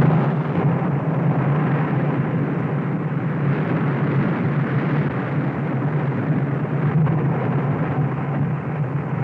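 Continuous deep rumble of a glacier face crumbling and its ice falling into the sea.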